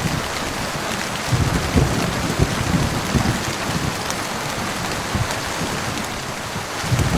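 Heavy rain falling steadily, with low rumbles of thunder that come and go beneath it, swelling about a second and a half in and again near the end.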